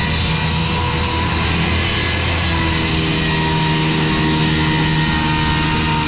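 Milwaukee corded 7-1/4-inch circular saw running steadily under load, its 24-tooth carbide blade cutting a relief cut through oak tongue-and-groove flooring.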